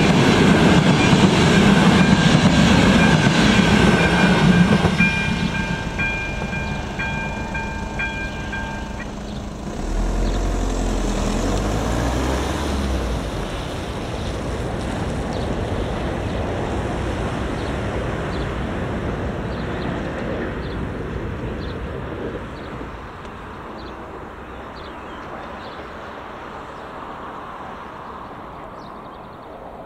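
A passenger train rolls over a level crossing with the clatter of its wheels, then fades into the distance. The crossing's electronic warning bell rings alongside it and stops about nine seconds in. A brief low rumble follows.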